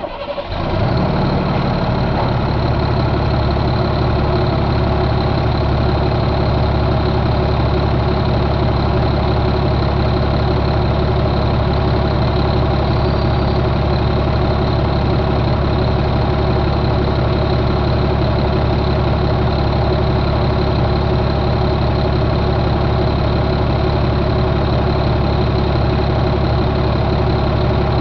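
2008 Caterpillar C7 inline-six diesel engine idling steadily, coming in abruptly at the start and then holding an even speed.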